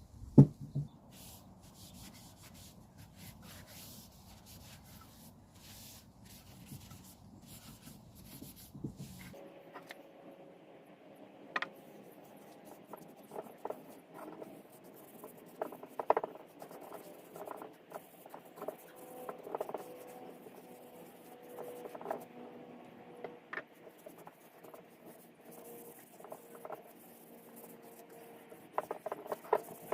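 Faint handwork on wood: rubbing and scraping, with scattered light taps and knocks. There is one sharp knock right at the start.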